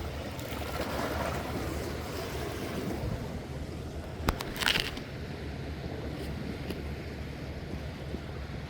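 Steady wind and sea-wave noise, with a single sharp click about four seconds in and a brief rustle just after.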